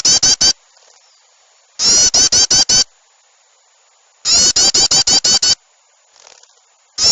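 Bird-lure recording of small songbirds' agitated chatter: harsh bursts of about half a dozen quick, high notes each, repeating about every two and a half seconds, with a faint lone call between bursts near the end.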